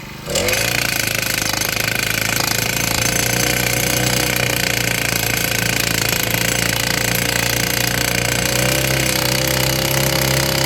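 Petrol-powered post driver hammering a fence post: its small engine runs hard under a rapid, steady pounding that starts suddenly just after the start, its pitch rising slightly near the end.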